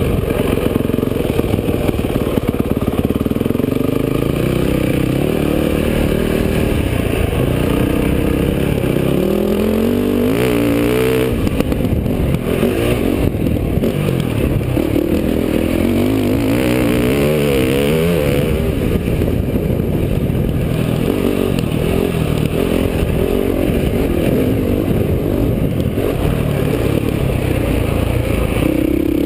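Motocross dirt bike engine being ridden hard, revving up and down continuously, its pitch climbing and dropping again and again as the throttle is worked.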